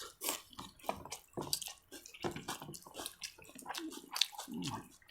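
Eating at the table: irregular small wet clicks, smacks and squishes of food being chewed and handled, with a short low hum from a voice a little before the end.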